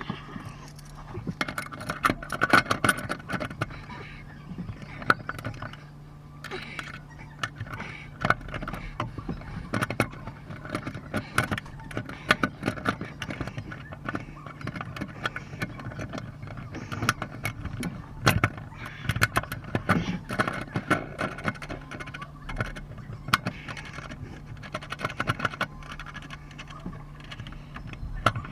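Irregular metallic clinks, knocks and rattles of tools and fittings being handled, over a steady low hum.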